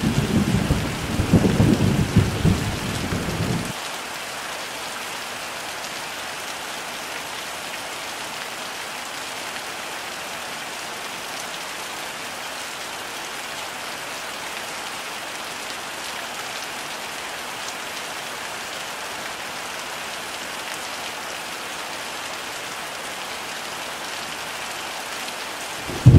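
Heavy rain falling steadily, with a loud low rumble of thunder over it for the first few seconds that cuts off suddenly about four seconds in, leaving only the even hiss of the rain. The thunder comes back at the very end.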